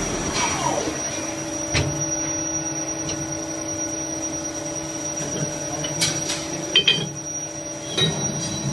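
CNC lathe running with a steady high whine and a lower hum. About half a second in a tone falls in pitch, and there are sharp clicks and knocks, a few close together near the end.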